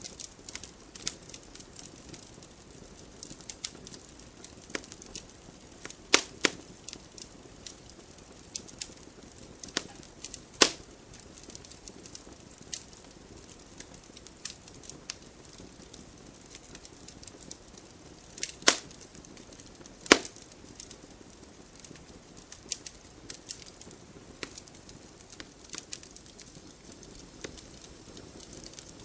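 Wood fire burning in a fireplace: a low steady hiss with scattered crackles and a few sharp, louder pops, the loudest about 6, 10, 18 and 20 seconds in.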